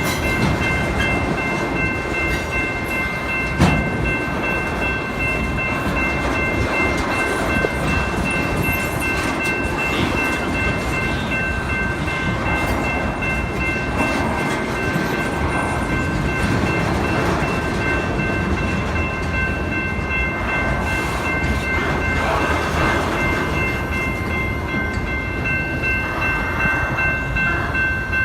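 Freight train cars rolling past with a steady rumble and clatter, and a steady high-pitched ringing tone the whole time. A single sharp knock stands out about three and a half seconds in.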